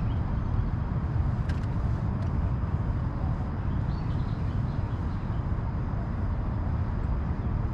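Steady low rumbling outdoor noise at an even level, with a faint click about one and a half seconds in.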